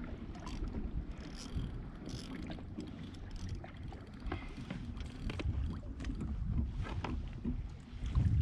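Wind rumbling on the microphone aboard a kayak at sea, with scattered small knocks and clicks.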